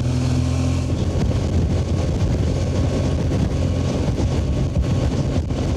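BMW R 1200 GS flat-twin engine running on the move, its steady note broken up from about a second in by heavy wind buffeting the microphone in strong gusts.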